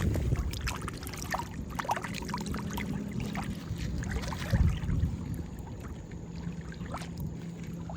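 Water splashing and trickling in short irregular bursts over a steady low rumble.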